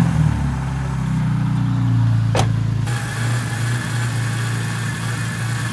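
BMW E36 engine just after starting, its revs settling into a steady idle.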